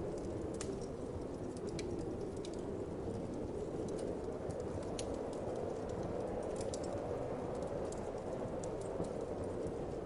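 Fireplace fire crackling, with irregular sharp pops scattered over a steady whoosh of wind.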